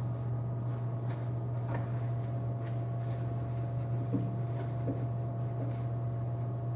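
A steady low hum throughout, with a few faint light knocks and rubs of a paper towel wiping the inside of a microwave.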